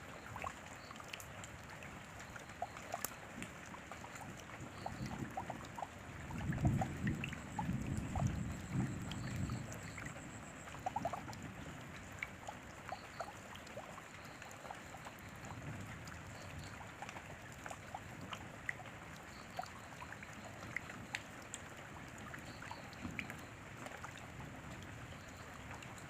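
Steady rain with many individual drops ticking close by. A low rumble swells for a few seconds, starting about five seconds in.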